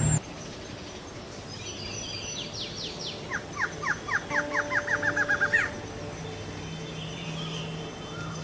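Antshrike song: a series of sharp notes that come faster and faster over about two seconds, ending on a higher note, after a few softer chirps.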